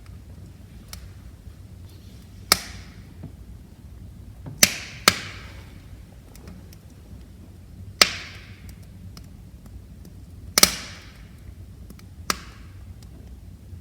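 Wood fire crackling in a fireplace: six sharp pops at uneven intervals, each trailing a brief hiss, with faint small ticks between them over a steady low rumble of the flames.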